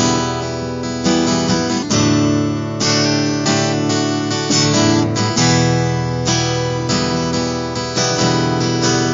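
Acoustic guitar strumming chords in a steady rhythm, an instrumental stretch between the sung lines of a country-style song.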